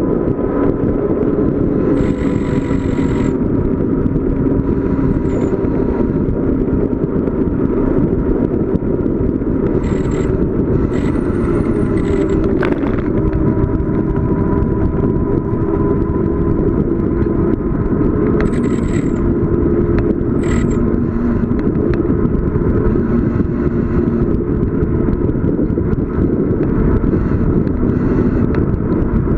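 Wind rushing over the microphone with steady road noise from a bicycle descending at speed. A few brief high-pitched squeals come and go over it.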